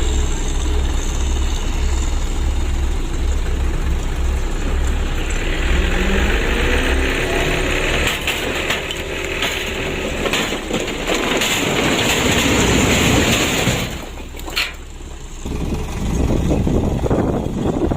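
Dump truck engine running with a deep steady rumble, then revving with a rising pitch about six seconds in and running loud and noisy; the level dips briefly near the end.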